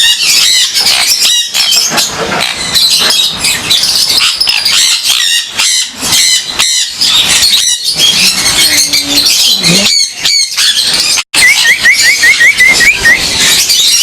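A flock of Jenday conures screeching and chattering, many short overlapping calls at once, with a quick run of repeated chirps near the end.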